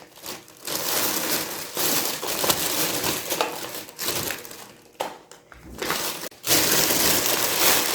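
Takeaway food packaging rustling and crinkling as items are handled and taken out, in two spells with a short quieter gap around the middle.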